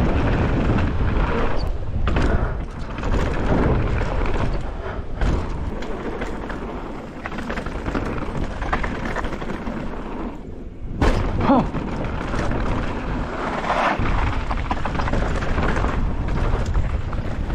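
Mountain bike riding down a rough trail: wind buffeting the microphone over tyres on dirt and the bike rattling over bumps, with a short lull and then a hard jolt about eleven seconds in.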